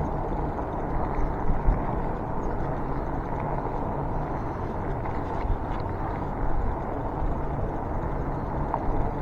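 Steady low rumbling noise of riding along on an e-bike, with a couple of small bumps about a second and a half in and again near the end.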